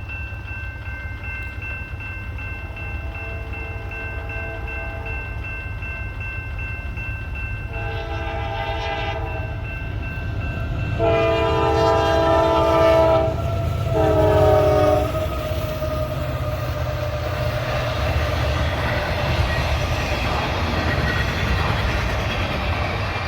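Freight locomotive air horn sounding a series of blasts as a train approaches: faint at first, then a short blast, a long one and another short one, over the steady rumble of the moving train. The rumble carries on after the horn stops.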